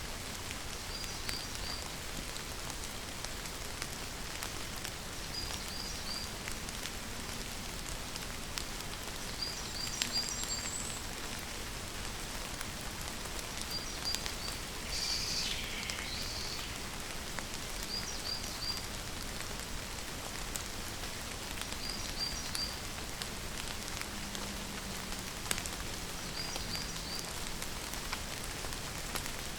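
Steady rain falling, a constant hiss of drops. Over it a small bird repeats a quick high three-note chirp about every four seconds, and gives one downward-sliding call midway.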